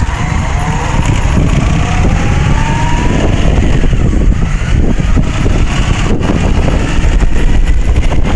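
Honda 750 motorcycle engine running under way, its pitch rising as it accelerates in the first few seconds, with heavy wind rumble on the microphone.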